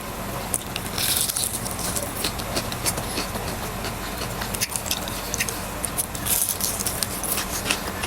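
Close-mic chewing of a fried fish snack: irregular small crackles and wet mouth sounds from biting and chewing the fried coating, over a faint steady hum.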